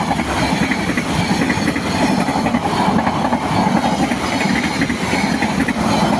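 Indonesian passenger train Kamandaka rolling past close by, its wheels clattering over the rail joints in a steady, loud rumble.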